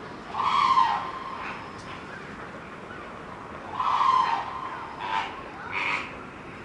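A bird calling loudly with harsh, squealing calls: one about half a second in, another around four seconds in, then two shorter ones near five and six seconds.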